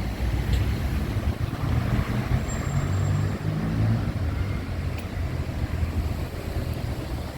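City street traffic: a car's engine rumble that swells as it passes, about two to four seconds in.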